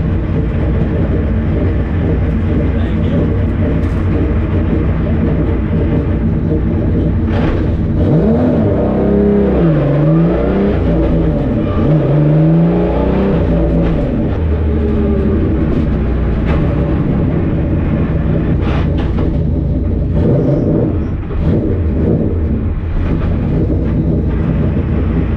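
The Mk2 VW's 3.6 VR6 engine runs loud and steady for several seconds. It then revs up and drops back several times in quick succession as the dog-box transmission is shifted through the gears during a drag pass.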